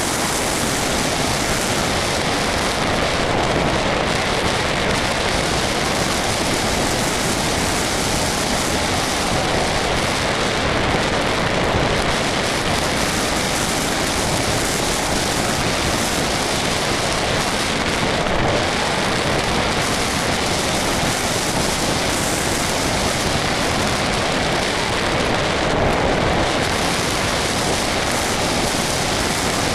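Steady rush of airflow over a camera on an RC model airplane in flight, an even roar with no distinct engine tone.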